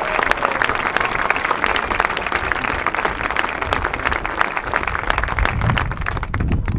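Crowd applauding, a dense patter of many hands clapping that dies down near the end.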